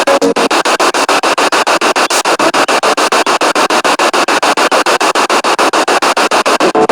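Spirit box sweeping through radio stations: loud hiss chopped at about seven steps a second, with brief snatches of broadcast audio just after the start and near the end.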